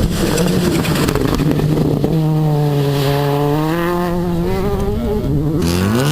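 Rally car engine running hard at a steady pitch, with a rough rumble in the first couple of seconds. Near the end the revs rise sharply and drop back.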